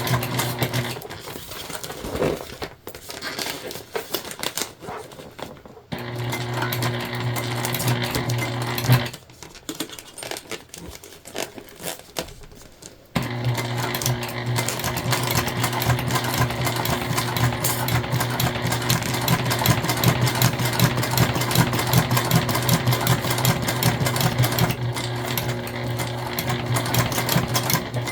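Sewing machine with a walking foot stitching through jelly vinyl, running in three spells: briefly at the start, for about three seconds from about six seconds in, and steadily from about thirteen seconds in to the end, with quieter handling between spells.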